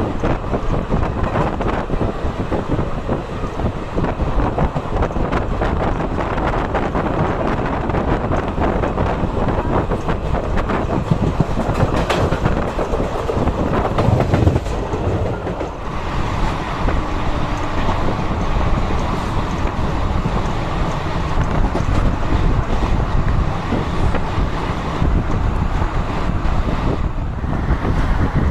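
Express passenger train running along the track: a steady rumble of the coaches, with many wheel clicks over the rails. It swells louder for a moment about halfway through.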